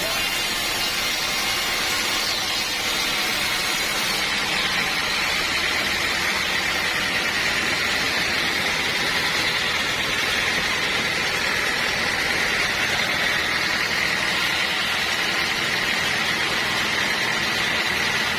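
Sawmill saw running steadily: an even, loud machine noise with a faint high whine that wavers slightly.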